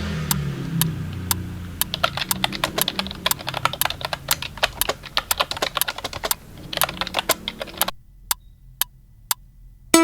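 Typewriter keys clacking in fast, irregular runs of sharp clicks. Near the end the clicks thin out to a few single strokes.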